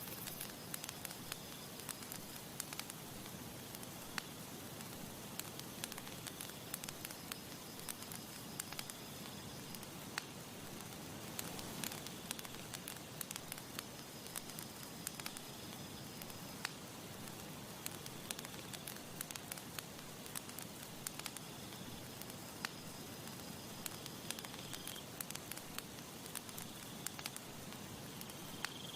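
Campfire crackling: irregular sharp pops and snaps from burning wood over a steady soft hiss.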